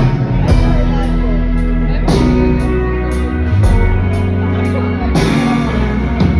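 Rock band playing an instrumental passage: guitar over sustained bass notes that change every second or two, with short percussive hits about every half second.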